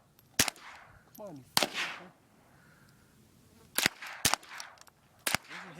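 .22 rimfire rifle shooting at small rimfire exploding cap targets: five sharp cracks, irregularly spaced, two of them close together in the second half, some with a brief ringing tail.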